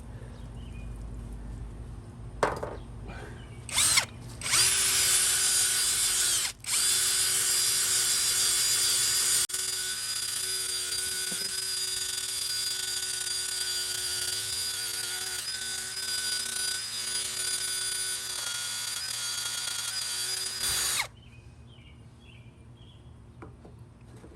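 Power drill fitted with a scrubber brush attachment, scrubbing a porcelain sink with Bar Keepers Friend. Two short trigger blips, then the drill runs steadily with a high motor whine for about sixteen seconds, with one brief break soon after it starts, and stops suddenly.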